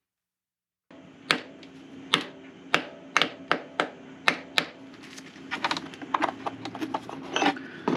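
A series of sharp clicks or taps, about two a second, over a low steady hum, turning into quicker, busier clicking and handling noise in the last few seconds.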